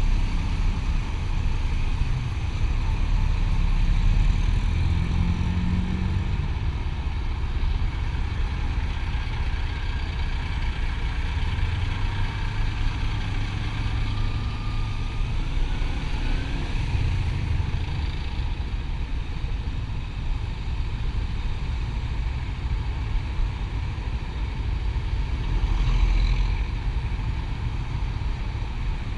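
Motorcycle running steadily at road speed, with road and wind noise over the engine.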